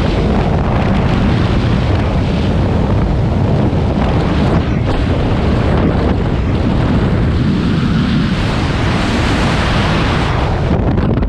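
Loud, steady wind rushing and buffeting over a skydiver's camera microphone during the jump.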